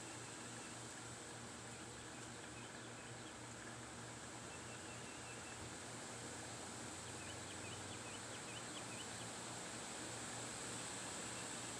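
Steady wind noise with faint, high chirps of a small bird: a few short ones early, then a quick run of them about seven to nine seconds in.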